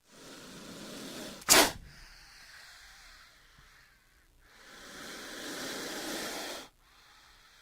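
King cobra hissing: a hiss that builds, then a sharp, loud burst about a second and a half in, and a second long hiss starting around four and a half seconds that cuts off suddenly.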